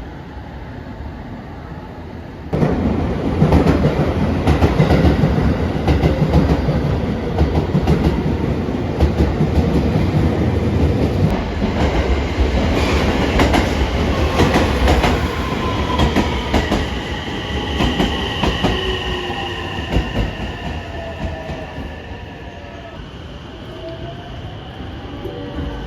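Electric train moving along a station platform. Noise jumps up suddenly about two and a half seconds in, with a dense run of wheel clatter over the rail joints. In the second half, thin high whining and squealing tones from the train sound over the fading clatter.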